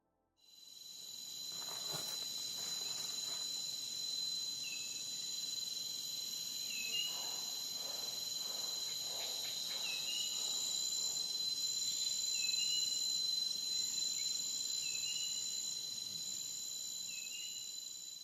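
Steady, high-pitched insect chorus of several shrill tones, fading in about half a second in. Short rising chirps sound over it every two to three seconds.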